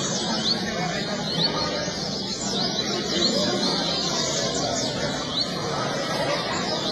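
A double-collared seedeater (coleiro) singing, with short, high, rising chirping notes repeated over a steady background murmur.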